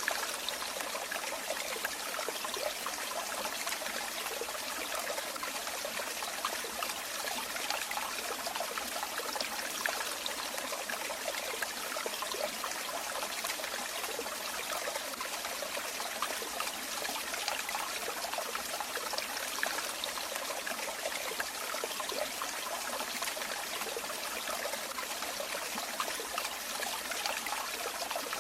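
Running water trickling and splashing steadily, like a small stream or a flow of water falling.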